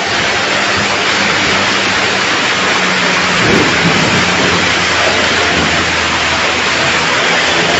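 Heavy tropical downpour: rain pouring steadily, a loud even hiss.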